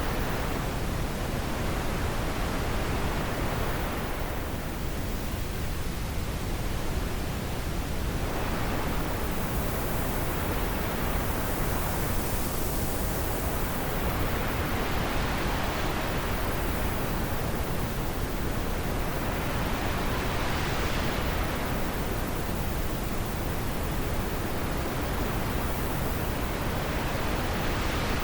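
Wind blowing in a steady rush of noise. The hiss swells and eases in slow gusts every few seconds.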